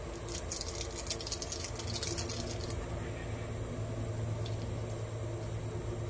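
Beef slices cooking in bubbling soy-based sauce in a wok, with a fine crackling sizzle that is densest during the first three seconds, over a steady low hum.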